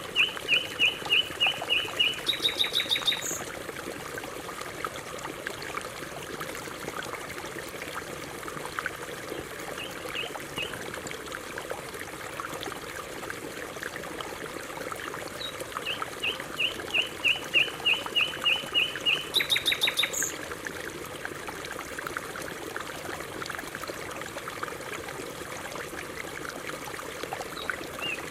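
Canary singing in bursts: a fast run of repeated chirps that ends in a short high trill, heard at the start and again past the middle, with long pauses between. A steady trickle of running water goes on underneath.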